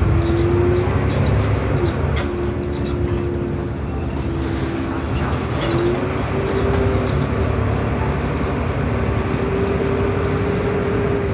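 Agora S city bus heard from inside while under way: a deep rumble of the drivetrain and road, with a steady high whine over it that drifts slightly in pitch and rises a little about halfway through. The whine is the odd noise the bus is making.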